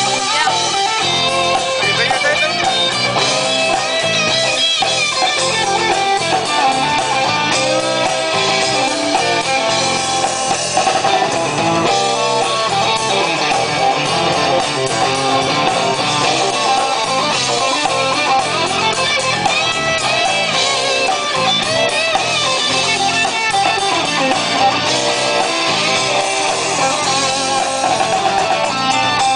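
Live band playing an instrumental passage led by guitar, recorded on a phone.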